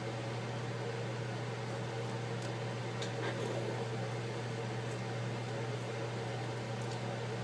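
A steady low electrical hum over a soft, even hiss, with a few faint clicks.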